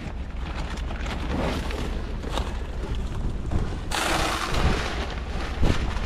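Strong wind buffeting the microphone with a steady low rumble. About four seconds in, a loud hiss sets in suddenly and keeps going.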